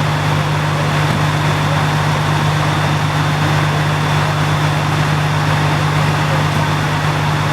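Fire apparatus diesel engine idling with a steady low hum.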